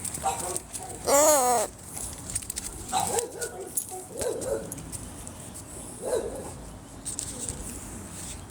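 Dog vocalizing: one wavering whine about a second in, then a few shorter, quieter calls.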